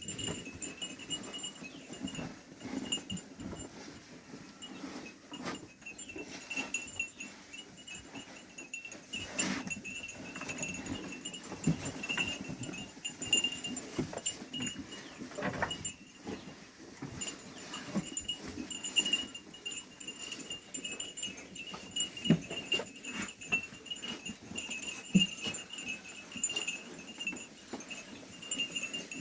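Sheep bells clinking and ringing steadily as a flock of sheep moves about, with occasional sheep bleats.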